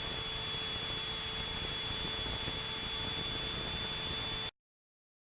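Steady hiss with a thin high whine in the Cessna 172's cockpit audio, no one talking, cutting off abruptly to dead silence about four and a half seconds in where the recording stops.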